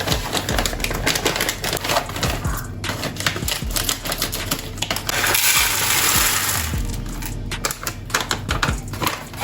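Plastic storage containers and pantry items being handled, with many quick clicks and clatters, and a rushing hiss from about five to seven seconds in; light music underneath.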